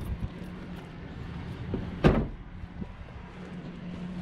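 Vehicle engine running steadily, with one loud thump about two seconds in.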